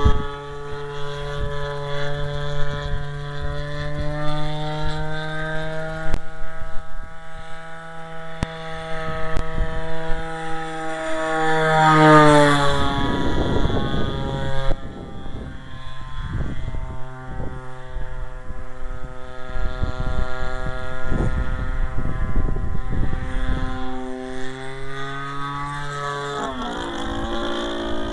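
Giant-scale RC airplane's Homelite 30cc two-stroke engine, converted from a string trimmer, running at high revs as the plane flies around. Its pitch climbs and then falls steeply as it passes close about twelve seconds in, and drops again near the end. Gusty wind buffets the microphone.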